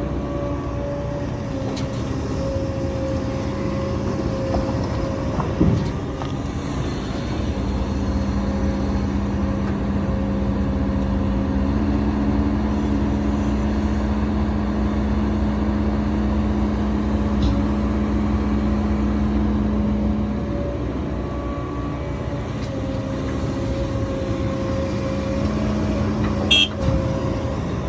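Heavy diesel earthmoving machinery running steadily, its engine note stepping up and down in pitch a few times as the load changes. A sharp knock about six seconds in and another near the end.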